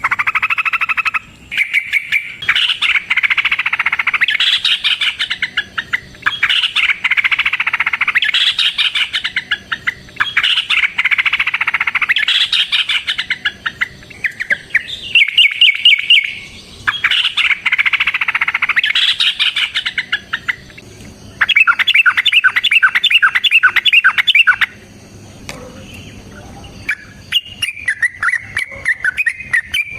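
Yellow-vented bulbul (trucukan) singing in long, rapid, chattering bursts of warbling notes, repeated over and over. A quick run of evenly repeated notes comes about two-thirds of the way through, followed by a short lull and then lighter chirping near the end.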